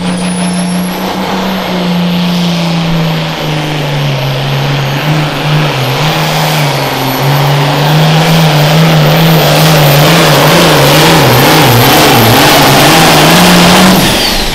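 Super farm class pulling tractor's turbocharged diesel engine at full throttle through a pull, with a high turbo whistle climbing in the first second. The engine pitch wavers, swinging up and down more in the later part of the run, and the sound cuts off sharply near the end as the run stops.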